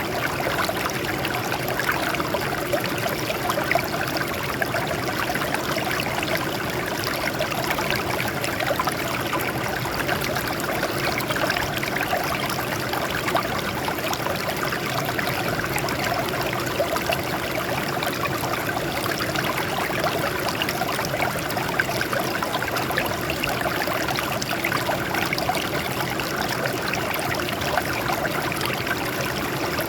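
Water flowing and trickling over rocks in a steady, continuous splashing stream.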